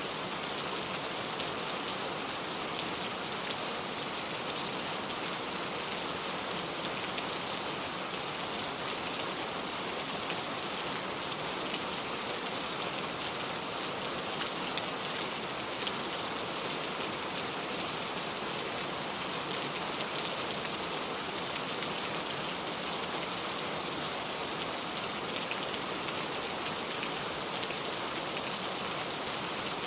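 Heavy rain pouring steadily, an even hiss of falling water with many fine drop taps on a surface.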